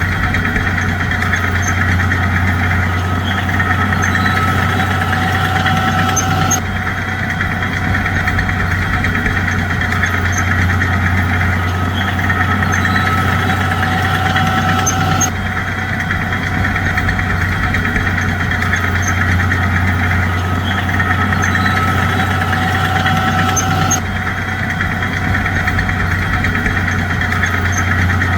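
Bulldozer's diesel engine running steadily with a low drone. The same stretch of sound repeats about every nine seconds, with a sudden jump at each seam, as in a looped recording.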